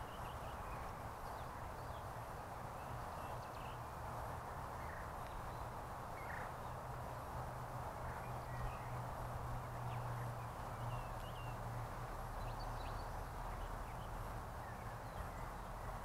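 Scattered short, high bird chirps over a steady background hiss and low hum.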